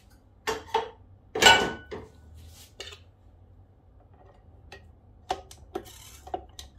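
Metal clanks and clicks as a wire whisk attachment is handled and fitted onto a KitchenAid stand mixer's beater shaft over its stainless steel bowl. The loudest clank comes about a second and a half in and rings briefly. Lighter clicks follow in the second half.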